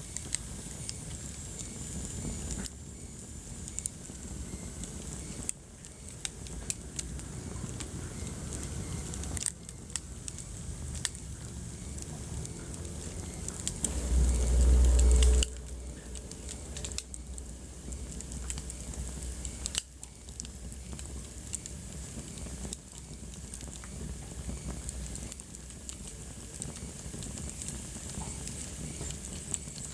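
Wood fire crackling in a fireplace: many sharp pops and clicks over a low hiss and rumble from the flames. About fourteen seconds in, a loud deep rumble lasts about a second and a half, then stops abruptly.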